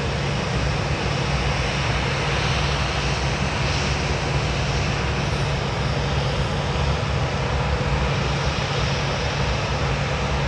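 Boeing 737's turbofan jet engines running steadily: a constant even rush of noise over a low hum, without rising or falling.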